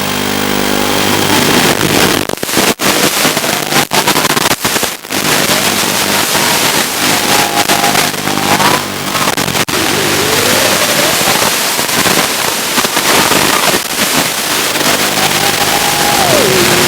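Loud, steady static hiss of an analog FPV video receiver's audio channel, crackling and breaking up in short dropouts several times. A thin whine rises and falls in pitch through it.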